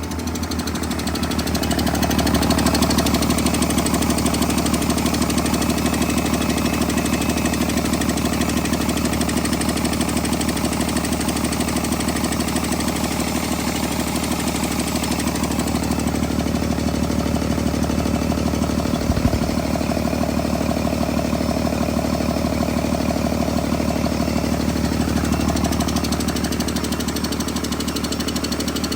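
Cummins ISB 6.7 inline-six diesel engine running steadily at idle, picking up slightly in the first couple of seconds. A short thump is heard about two-thirds of the way through.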